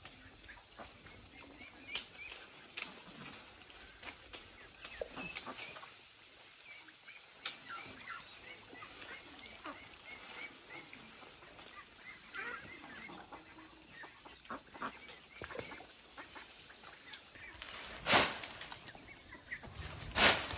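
Birds or poultry chirping and calling in short notes over a steady high-pitched hum, with a few small clicks. Two loud thuds come near the end, about two seconds apart.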